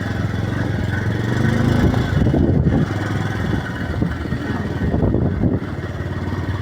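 Motorcycle engine running steadily while riding, a little louder for about a second near the middle.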